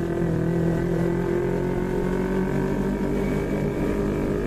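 Yamaha MT-25's parallel-twin engine running at a steady pitch while the bike is ridden.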